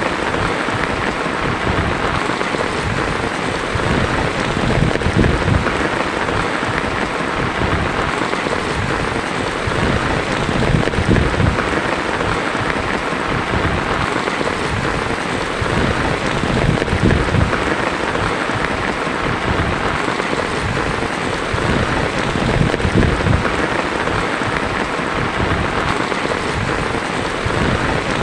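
Heavy rain falling steadily on a tin roof, with a low rumble swelling now and then.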